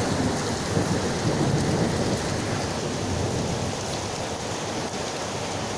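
Heavy rain pouring steadily, with a low rumble in the first couple of seconds that eases off as the downpour continues.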